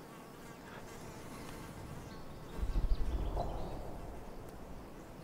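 Flies buzzing around a body. About halfway through, a low, fluttering rumble swells up and fades away.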